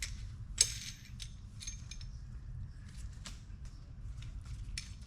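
Metal hand tools and fittings clicking and clinking in a run of short, sharp hits, the loudest about half a second in, over a steady low background rumble.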